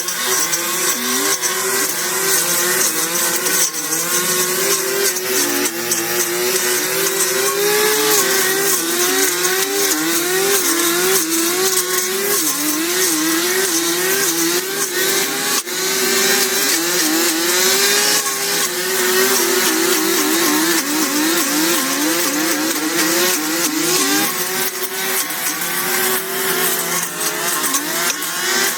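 A small high-revving engine, like a power tool's, throttled up and down over and over, about once or twice a second, over a steady hiss.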